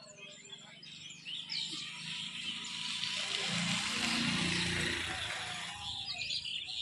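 Small birds chirping over a hiss of outdoor background noise that grows louder in the middle.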